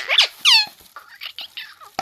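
A parrot's sharp chirping calls: two loud calls falling in pitch in the first half second, then a run of softer, shorter chirps.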